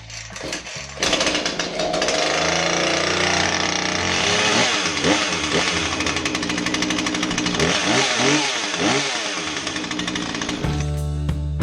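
Husqvarna 135 chainsaw's two-stroke engine running after its throttle plate (air valve) was replaced, revved up and down several times. It comes in about a second in and cuts off just before the end.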